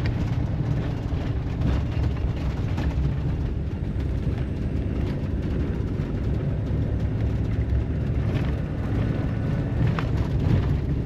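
Campervan driving along: a steady low engine and road rumble, with a few faint knocks and rattles.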